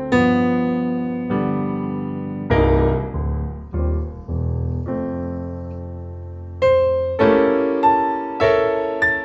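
Solo piano music playing slow chords, each struck and left to fade.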